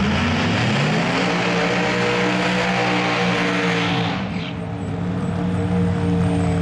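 Drag-racing car engine at full throttle on a pass. The revs climb in the first second, then hold steady, and the sound dulls about four seconds in as the car pulls away down the track.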